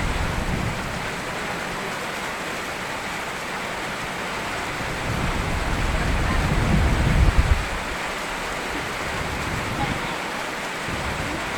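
Steady rain falling, with low rolling thunder rumbling at the start and swelling again about halfway through before it fades.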